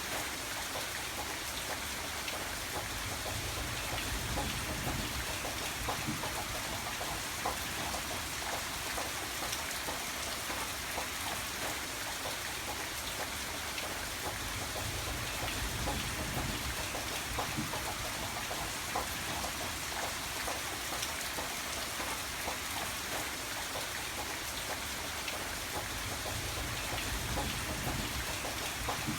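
Steady rain falling, an even hiss with scattered individual drop ticks. A low rumble swells up and fades about three times.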